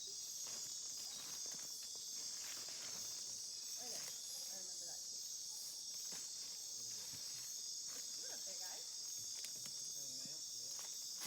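Steady chorus of rainforest insects such as crickets, an even high-pitched buzz, with faint voices now and then.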